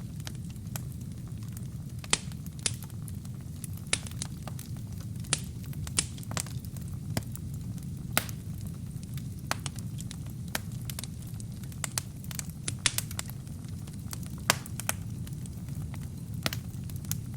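Wood fire burning in a fireplace: a steady low rumble of flames with irregular sharp crackles and pops from the burning wood and kindling.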